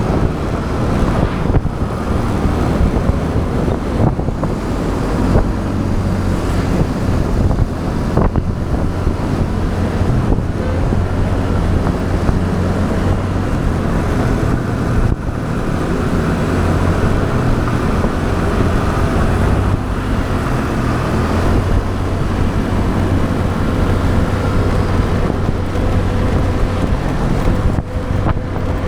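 Motorbike engine running steadily under way, with wind rushing over the action camera's microphone.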